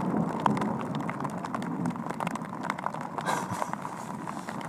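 Rain falling on a soaked Gore-Tex bivy cover, heard from inside: a steady hiss with scattered, irregular drop ticks.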